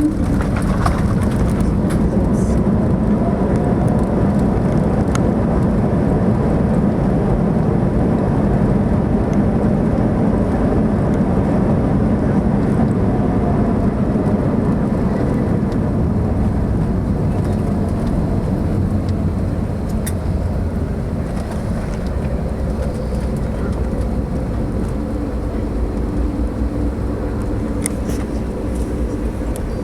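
Inside the cabin of an Airbus A321neo airliner during its landing rollout: a loud, steady rumble of engine and rolling noise with steady engine tones, slowly quietening as the aircraft slows.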